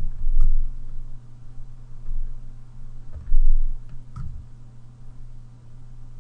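A few scattered clicks from a computer keyboard and pen or mouse while drawing digitally, over a steady low electrical hum, with a couple of dull low thumps, one at the start and one about three and a half seconds in.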